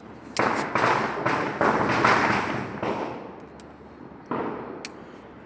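Hissing rush of a burning pyrotechnic charge being lit for a model rocket, coming in several surges over about three seconds, with a further short burst near the end.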